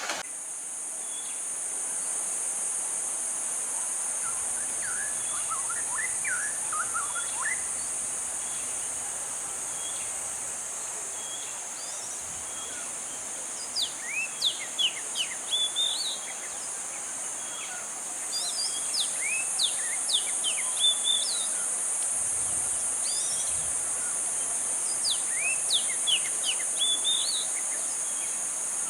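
Outdoor insect chorus, a steady high-pitched drone, with birds chirping over it in several quick runs of short, sharply sweeping notes.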